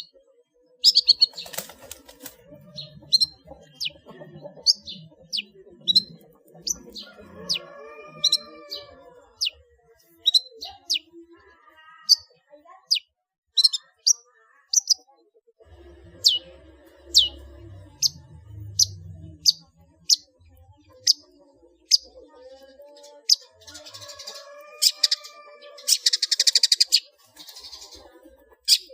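Long-tailed shrike (cendet) singing a continuous song full of mimicked calls, mostly sharp down-slurred chirps. Near the end comes a harsh, buzzing rattle.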